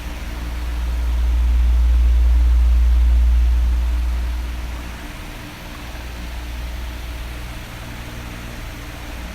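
Electric fan running: a steady airy hiss with a faint motor hum. A low rush of air swells from about a second in and fades by about five seconds.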